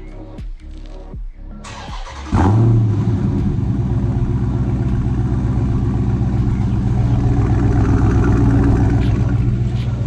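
Background music, then a Dodge Charger Scat Pack's 392 Hemi V8 starting cold about two seconds in. A brief crank and a sudden loud flare of revs are followed by a steady, loud cold idle.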